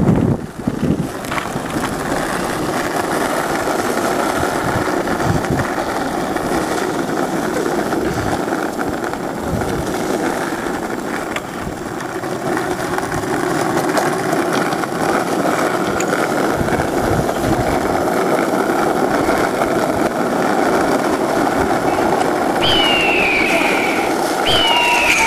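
A car running steadily. Near the end come three high, falling squeals about a second and a half apart.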